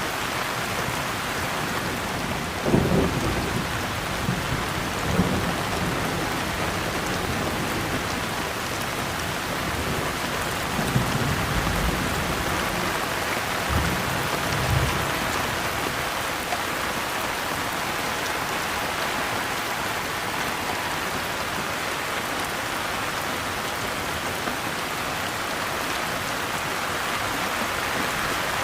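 Steady rain falling, with several low rumbles of thunder: about three seconds in, again around five seconds, and twice more between eleven and fifteen seconds.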